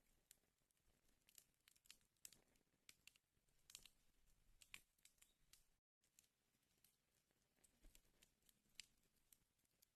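Wood fire burning in a fireplace, crackling faintly with irregular sharp pops and snaps over a soft hiss. The sound cuts out completely for a split second about six seconds in.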